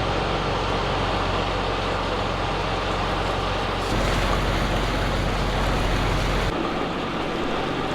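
Fishing boat's engine running steadily under way, a low hum beneath a rush of wind and water. The sound shifts abruptly about four seconds in and again near the end.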